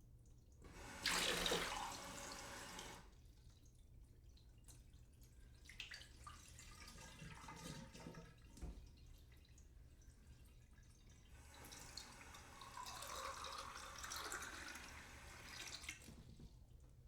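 A glass being filled with water from a sink tap. There is a short loud gush about a second in, then scattered drips and splashes, and later a longer stream running into the glass, its tone rising as the glass fills.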